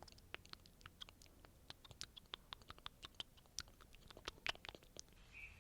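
Foley crackling and crunching: a fast, irregular run of small dry snaps and crackles, as of dry leaves, twigs or food being crushed.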